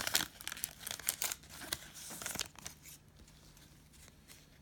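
Foil trading-card pack wrapper being torn and crinkled, a run of short crackles over the first two and a half seconds that then dies away.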